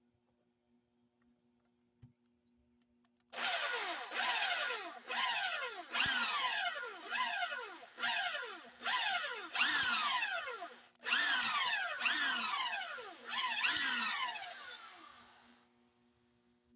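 Electric drill boring shallow holes into a motorcycle's steel clutch plate, run in about a dozen short bursts roughly once a second. The pitch drops during each burst as the motor slows.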